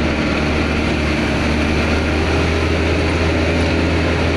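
Dump truck's diesel engine running steadily under heavy load as the truck climbs a slippery, muddy slope.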